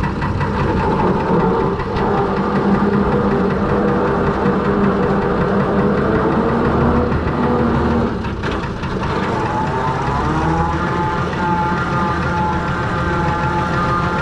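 Six-cylinder Perkins diesel in a Fordson Major tractor running as the tractor pulls away in first gear. The engine note dips briefly about eight seconds in, then climbs and holds steady.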